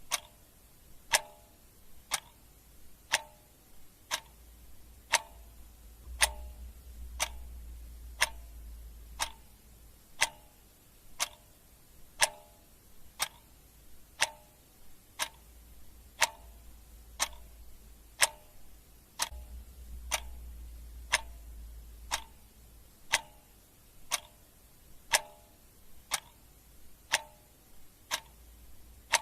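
Clock ticking steadily, about one crisp tick a second. A low rumble swells twice underneath.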